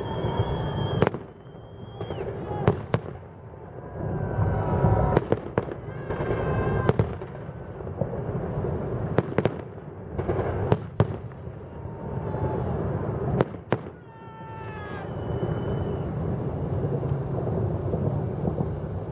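Fireworks salute: a series of sharp bangs, several in quick pairs, over a steady low rumble of distant bursts.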